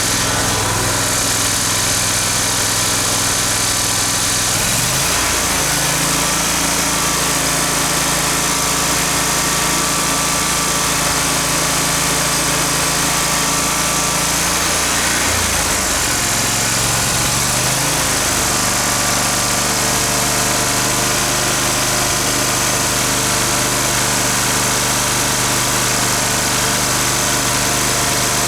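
Kohler engine of a Dixon zero-turn mower running steadily after new coils and spark plugs, sounding good; its speed steps up about five seconds in, drops back around the middle, and rises again shortly after.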